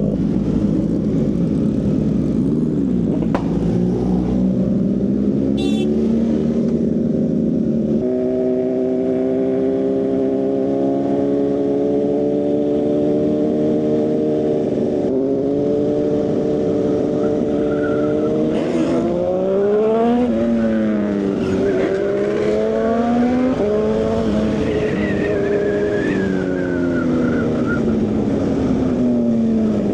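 Motorcycle engine and exhaust under load on a hill climb, the note rising and falling with the throttle, holding steady for a while and dropping sharply a few times.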